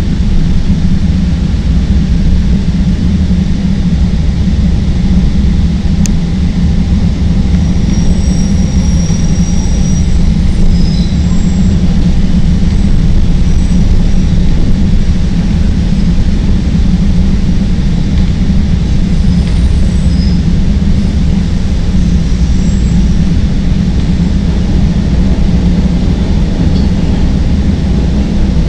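CTA Green Line elevated train running between stations, heard from aboard: a steady, loud rumble of wheels on the rails, with a few faint, brief high squeals.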